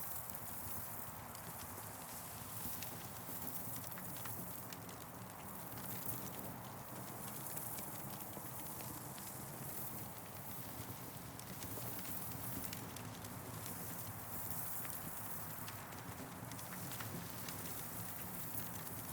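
Campfire crackling, with scattered small sharp pops over a steady hiss.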